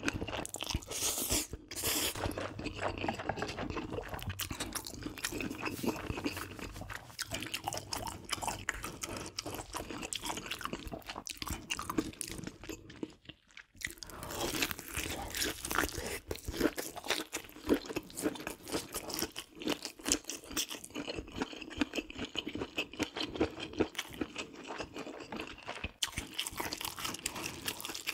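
A person eating close to the microphone: chewing with crunchy bites throughout, pausing briefly about halfway through.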